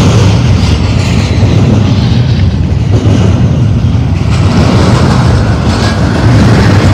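Double-stack intermodal freight train's well cars rolling past close by: a loud, steady rumble of steel wheels on rail, with a few sharp clicks near the end.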